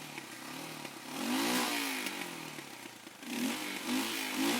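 Royal Enfield Himalayan's single-cylinder engine running with the throttle blipped: the revs rise and fall twice, about a second in and again near the end. It is being revved to dry out the wet air filter and intake after stalling in floodwater.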